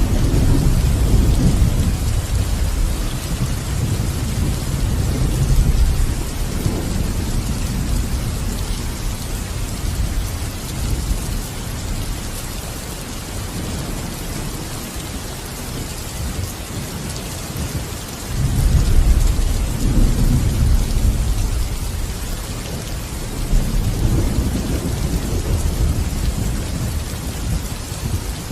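Steady heavy rain with rolling thunder: low rumbles swell and fade under the hiss of the rain, strongest at the start and again about two-thirds of the way through.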